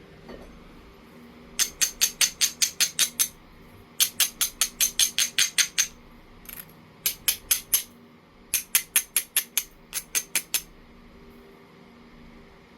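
Jasper being worked stone on stone in five quick bursts of short, sharp strokes, about seven a second, most likely an abrader rubbed back and forth along the edge to grind the platforms.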